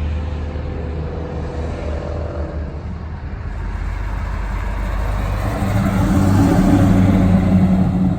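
A car engine running, growing louder about two-thirds of the way through.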